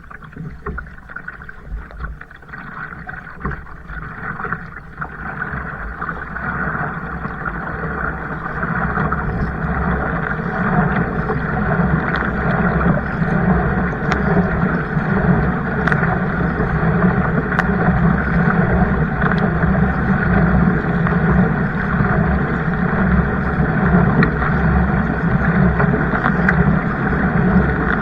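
Water rushing and splashing along a kayak as it is paddled, growing louder over the first several seconds and then holding steady.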